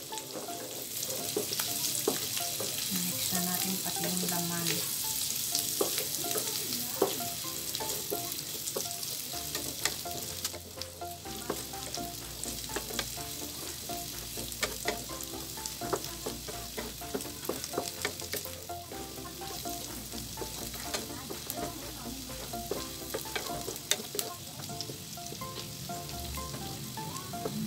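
Pork pieces and onion sizzling in hot oil in a non-stick wok. A wooden spatula keeps stirring them, with frequent short scrapes and taps against the pan over the steady sizzle.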